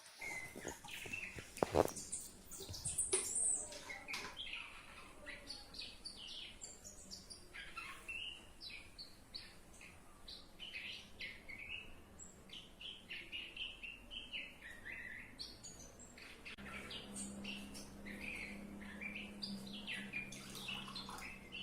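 Small birds chirping in quick, repeated short calls, with a sharp knock about two seconds in and a low steady hum starting near the end.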